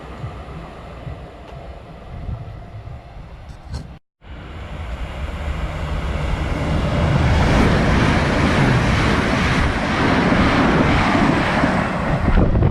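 A train passing through the station at speed: a rumble with a faint steady tone, then a brief total dropout, after which a loud rushing, rumbling noise builds over a couple of seconds and holds as the train goes by.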